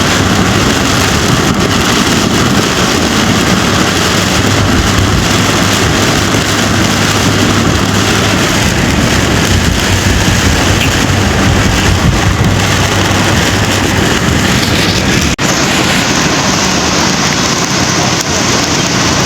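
Heavy rain in a loud, steady downpour, with a brief break in the sound about fifteen seconds in.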